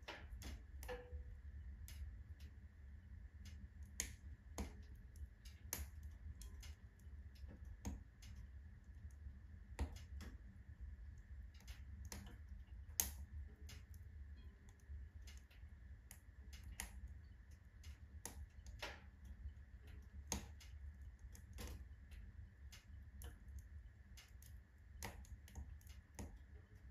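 Firewood burning in a full wood-burning stove, crackling with irregular sharp pops and snaps, the loudest about halfway through, over a low steady rumble.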